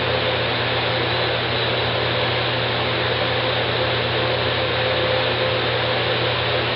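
Steady background noise: an even hiss with a low, constant hum, unchanging throughout.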